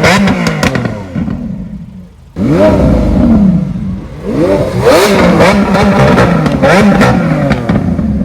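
Car engine revved hard several times, the pitch sweeping up and falling back with each blip, with sharp cracks among the revs.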